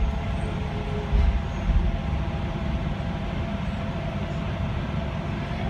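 Docklands Light Railway train running along the track, heard from inside the front car: a steady low rumble of wheels and running gear with a faint steady whine. A few low thumps come in the first two seconds.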